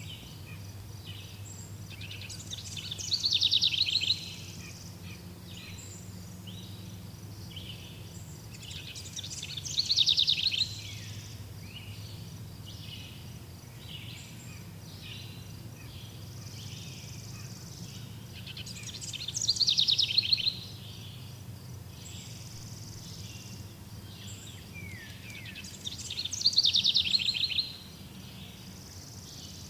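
Songbirds singing: one bird repeats a loud, fast trilled song four times, about every seven seconds, over softer chirping from other birds. A steady low rumble runs underneath.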